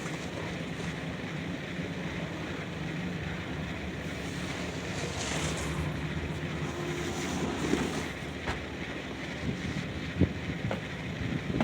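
Steady outdoor ambience: an even rush of noise over a low steady hum, with a few sharp knocks in the last few seconds.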